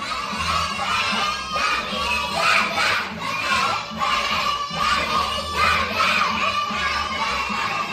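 A group of young children shouting and cheering together, many voices at once.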